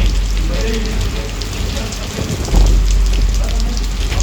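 Heavy monsoon rain falling hard, with a strong low rumble underneath that swells again about two and a half seconds in.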